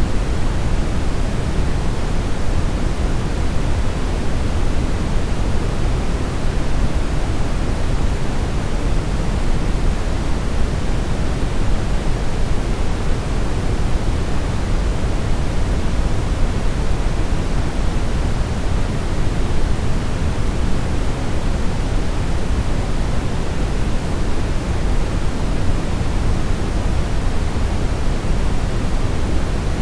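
Steady brown noise: an even, unchanging deep rushing hiss, strongest in the bass and darker than white noise.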